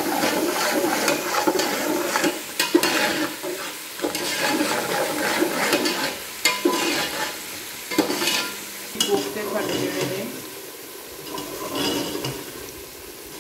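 Chicken pieces frying and sizzling in hot oil with sliced onions and ginger-garlic paste in an aluminium pot. A metal ladle stirs and scrapes through it, clinking sharply against the pot a few times.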